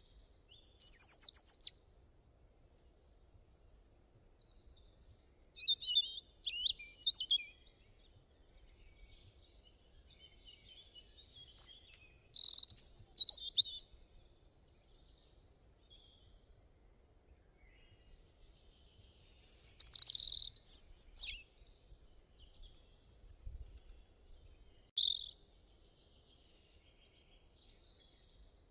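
Small birds singing outdoors: bursts of high, quick chirps and trills a few seconds apart, over a faint low background.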